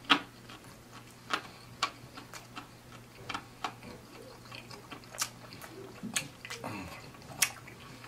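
Close-miked chewing of fried seafood: wet mouth clicks and lip smacks, about eight sharp ones scattered irregularly, with a faint murmur from the throat near the end.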